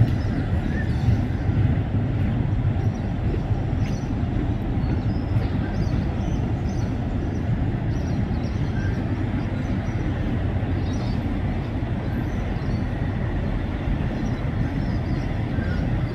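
Freight train of container wagons rolling steadily across a steel truss rail bridge: a continuous low rumble and rattle of wheels and wagons, with brief faint high squeaks now and then.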